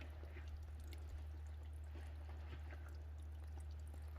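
Faint trickle and drip of water from a healing-water spring, over a steady low hum.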